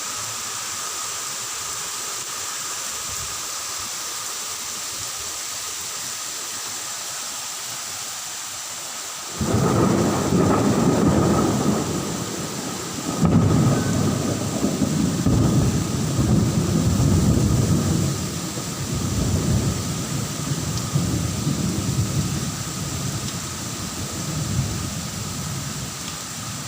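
Steady rain hiss, then about nine seconds in a loud rolling rumble of thunder breaks in suddenly. It swells again a few seconds later and slowly dies away near the end, with the rain going on underneath.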